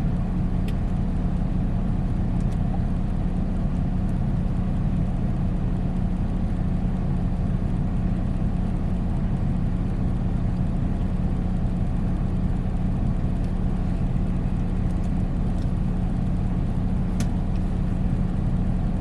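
Semi-truck's diesel engine running steadily, a constant low drone heard inside the cab, with a few faint clicks.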